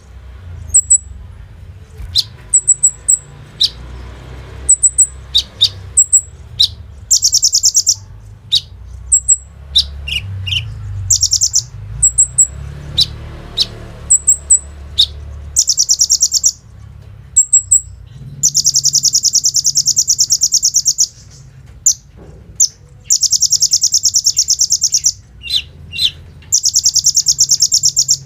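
Kolibri ninja (a sunbird) singing energetically: a string of short, sharp, high chirps broken by several long, rapid buzzing trills of one to three seconds each, over a low background rumble.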